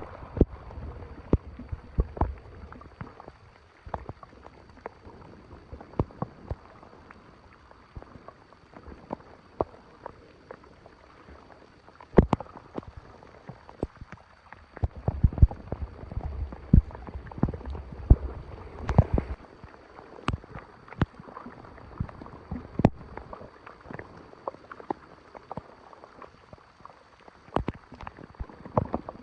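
Water gurgling and splashing at a clogged storm drain, with irregular sharp clicks and knocks scattered through it and a low rumble about halfway through.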